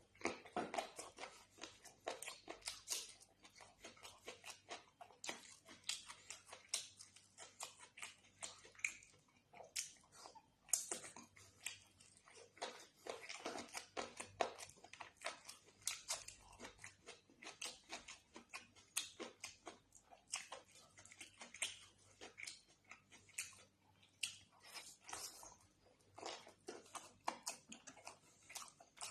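Close-miked eating sounds of a meal of chicken curry and rice: chewing, biting and wet mouth smacks, with many short clicks and snaps a second in an uneven rhythm.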